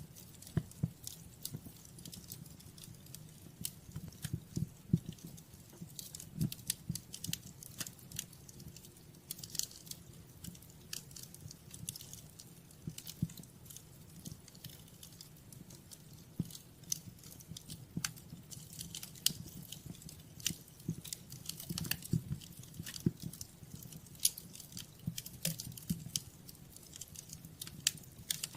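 Fire crackling in a fireplace: many irregular sharp crackles and pops over a low, steady rumble of the flames.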